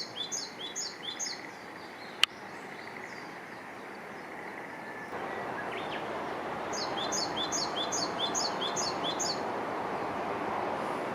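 A wild bird calling in rapid series of high, downward-sliding notes, about three a second: one run at the start and another from about seven to nine seconds in. Under the calls is a steady outdoor hiss that grows louder about halfway through. A single sharp click comes a little after two seconds in.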